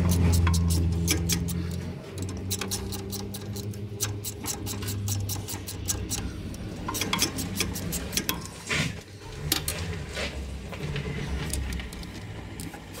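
A low engine hum fades out over the first two seconds, then a ratchet wrench clicks in quick runs as bolts are worked loose on the tractor's gear-lever cover.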